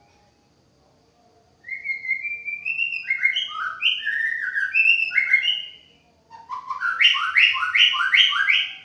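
White-rumped shama (murai batu) singing: a phrase of clear, gliding whistled notes, then after a short pause a second phrase of quick repeated notes.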